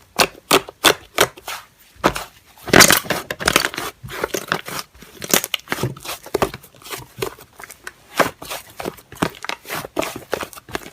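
Slime being squished and worked by hand: a fast, irregular run of sticky pops, clicks and crackles, loudest a little under three seconds in.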